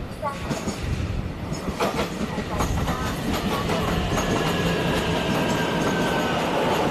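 A Taiwan Railway train running along the platform tracks. Its wheels clack over the rail joints, with a few sharp knocks about two seconds in, and the rumble grows louder and then holds steady.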